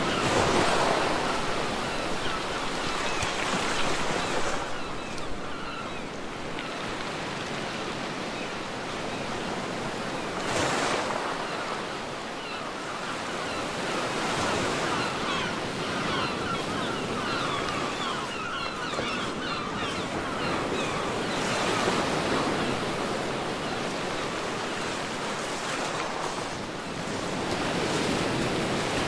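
Ocean surf washing onto a beach: a continuous rush of water that swells as waves break every few seconds.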